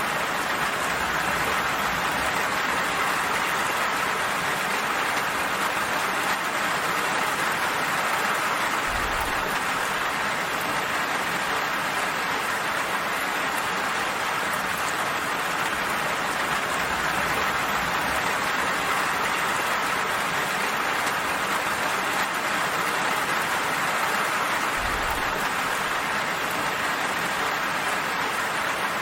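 Gentle rain falling steadily, an even hiss of many drops with no pauses.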